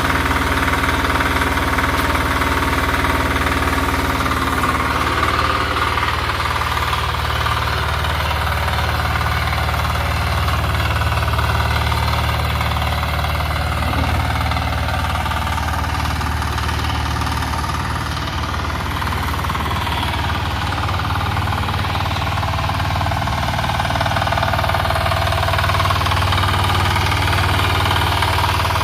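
Power tiller's 10 hp Kama single-cylinder diesel engine running steadily.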